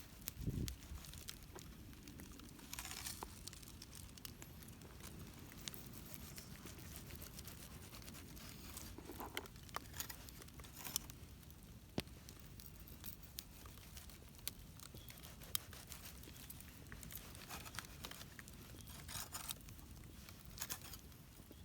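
Faint scattered clicks and short rustles over a steady low rumble.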